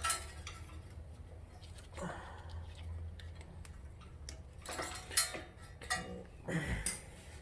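Small metal parts and hand tools being handled: scattered clicks and light clinks, with one sharp click about five seconds in, over a steady low hum.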